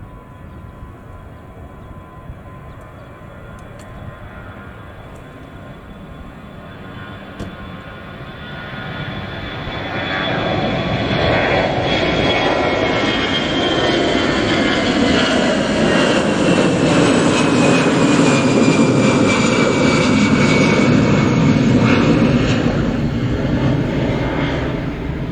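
Jet airliner taking off: its engine noise swells from faint to loud about a third of the way in, with a high whine that slides down in pitch as it passes, then eases off near the end.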